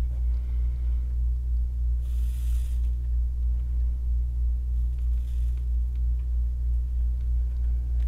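Steady low electrical hum, with a short hiss about two seconds in and a fainter one near five seconds, fitting flux sizzling under a soldering iron as a wire is tinned.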